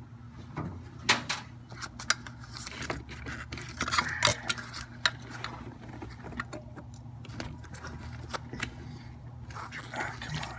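Scattered metallic clicks and clinks of hand tools being handled, with a loud clack about a second in and a cluster of clinks about four seconds in, over a steady low hum.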